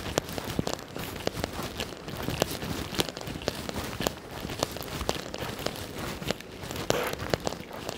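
Rain falling on a wet street, a steady hiss broken by many irregular sharp ticks of drops hitting close by, with footsteps in wet melting slush.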